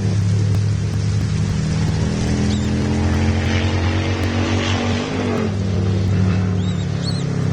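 A low, steady engine hum with a slight shift in pitch about five seconds in. A few short, high, arching bird chirps come once early and again several times near the end.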